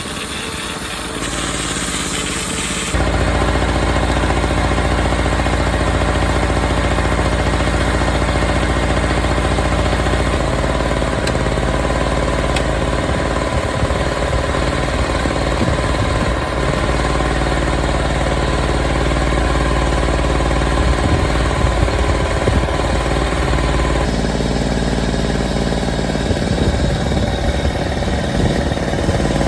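Yamaha ET950 generator's small two-stroke engine running steadily after restoration. The sound shifts abruptly in tone and loudness about three seconds in and again a few seconds before the end.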